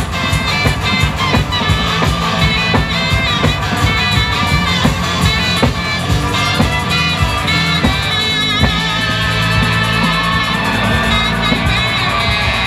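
Live band playing an instrumental passage, a steady drum beat under amplified pitched instruments.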